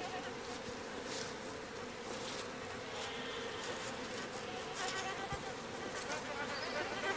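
Mining bees buzzing in flight: a steady drone of several bees.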